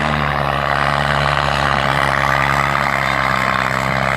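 New Holland tractor's diesel engine running steadily and loudly, with no change in pitch.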